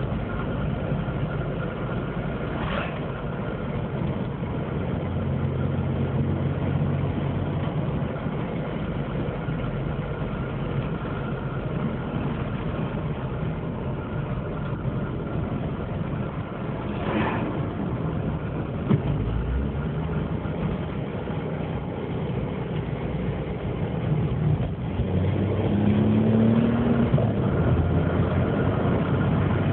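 Opel Corsa 1.0 12V three-cylinder engine running with a broken, crumbled exhaust, giving a loud, deep drone instead of a quiet note. The engine note steps up and down a few times and rises and gets louder near the end.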